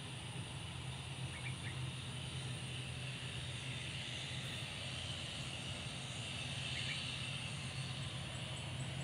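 Steady engine hum with a hiss from distant jet aircraft, holding at an even level, with a few faint bird chirps.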